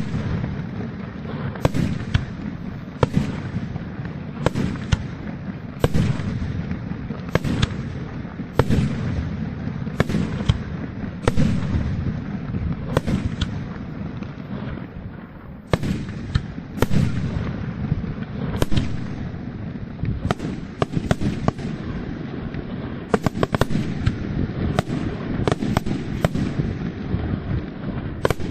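Aerial firework shells bursting in a quick barrage: sharp bangs about once a second over a continuous low rumble and crackle, with a short lull about halfway through.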